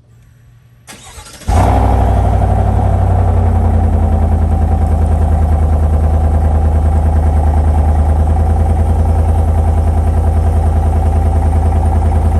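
A 2019–2024 Chevy Silverado's 5.3L V8 through a Flowmaster Super 10 muffler, cranking briefly, catching about a second and a half in, then running at a steady, loud cold-start fast idle.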